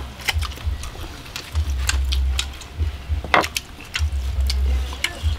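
Grilled pig intestine being pulled apart and chewed: irregular sharp clicks and crackles over repeated dull low thumps.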